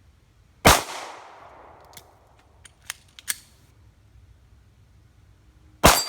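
Two pistol shots from a Glock 42 in .380 ACP, about five seconds apart, each trailing off in a short echo. A few lighter clicks come between them.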